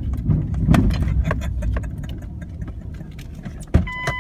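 Low, steady rumble of the consist's diesel locomotives idling, with scattered knocks. Near the end there is a sharp click, then a steady electronic beep.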